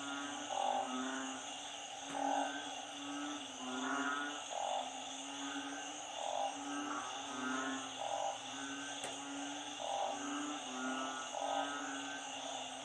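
A chorus of frogs, narrow-mouthed frogs (อึ่ง) and small frogs (เขียด), calling over and over. The calls overlap and repeat about once a second, some low and moaning, others higher, over a steady high-pitched trill.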